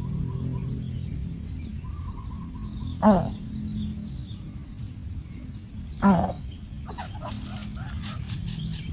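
A bird giving two loud, short calls that drop quickly in pitch, about three seconds apart, with faint high chirps between them and a run of quick clicks near the end, over a steady low hum.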